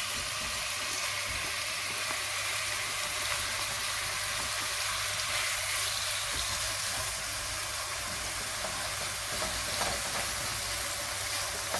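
Diced chicken sizzling as it fries in hot oil in the pot: a steady, even hiss.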